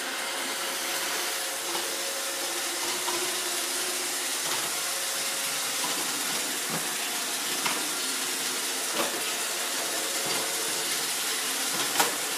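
Roomba robot vacuum running: a steady whirring hiss from its vacuum motor and brushes, with a few light knocks, the loudest near the end.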